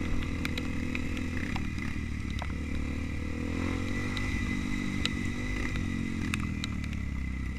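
Trail motorcycle engine running while riding, its pitch dipping and rising gently about midway, with scattered sharp clicks and rattles.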